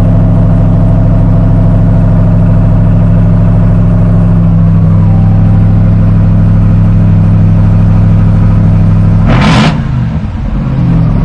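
Ram TRX pickup's supercharged 6.2-litre V8 running at a steady, loud idle through an aftermarket exhaust, with no supercharger whine to be heard. A short sharp noise comes near the end, then the engine note drops briefly.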